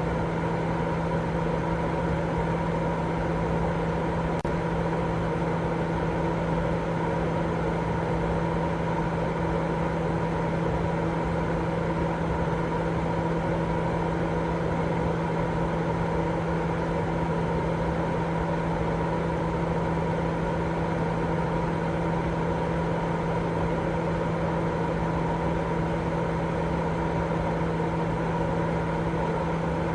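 Continuous sleep-aid white noise that holds steady and does not change. It carries a constant low hum and a few steady tones, like a machine running.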